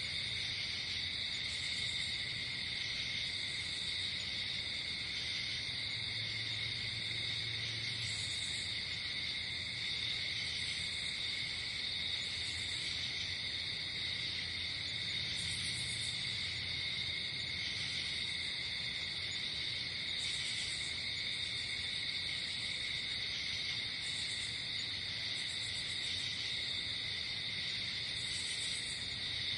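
Night insect chorus: crickets trilling without a break, with short high buzzes from other insects about every two seconds.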